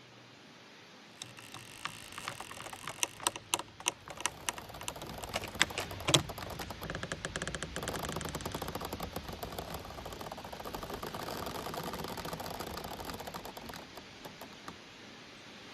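Giant bamboo stems creaking and knocking as they sway in the wind and rub together: first a run of sharp clicks and knocks, the loudest about six seconds in, then a long, fast ticking creak that fades out near the end.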